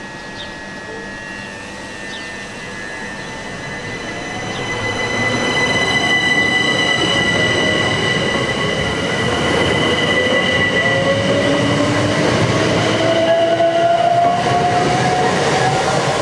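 Class 375 electric multiple unit departing, with a steady high whine and a lower whine that rises in pitch from about five seconds in as the train picks up speed.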